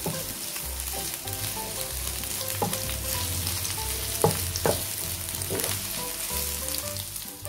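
Sliced shallots, garlic and red chilies sizzling in hot oil in a frying pan while a spatula stirs them, knocking and scraping on the pan several times. This is the spice base being sautéed until fragrant.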